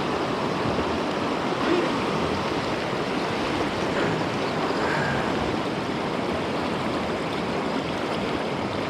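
Steady rush of a swollen river, running high after heavy rain.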